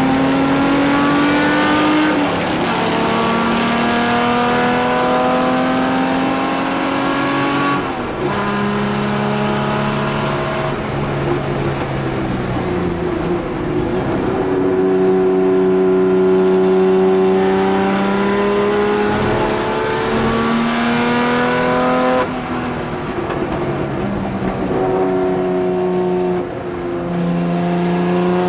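In-car sound of a 1963 Jaguar E-type race car's 3.8-litre straight-six engine under racing load. The pitch climbs steadily, then drops or jumps several times as gears change and the throttle lifts for corners, with the engine pulling hard again after each change.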